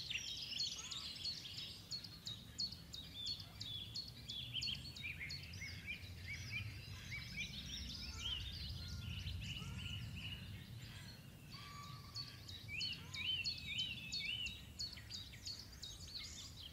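Several songbirds chirping and singing together, many quick high notes overlapping, over a low steady rumble that swells in the middle.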